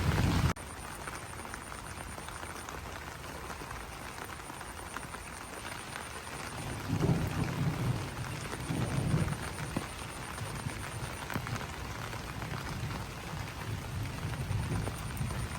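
Steady rain pattering on banana leaves, dropping abruptly in level about half a second in. A few low throbbing sounds come through around the middle and near the end, with a faint high pulsing tone behind the rain.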